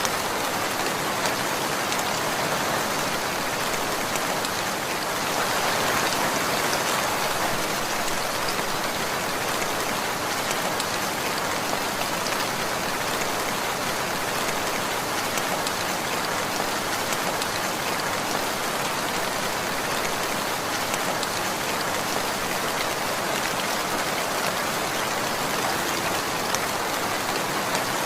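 Steady rain falling, with many raindrops pattering on a surface. It swells slightly a few seconds in.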